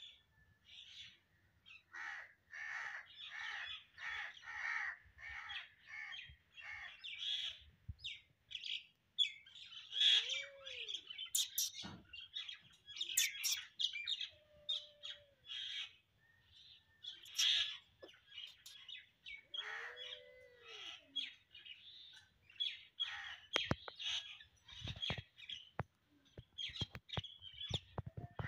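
Birds calling and chirping, with a quick run of repeated calls in the first few seconds. Two shorter, lower calls rise and fall, and a few sharp clicks come near the end.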